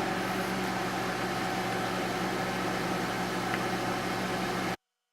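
Microwave oven running while heating a bar of soap: a steady hum with fan noise that cuts off suddenly near the end.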